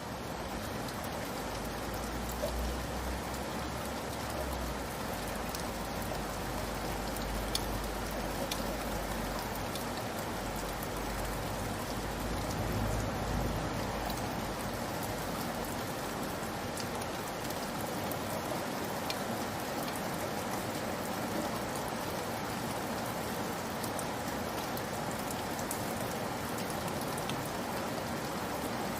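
Steady rain falling: an even hiss with scattered ticks of individual drops. A low rumble sits underneath for roughly the first half, then fades away.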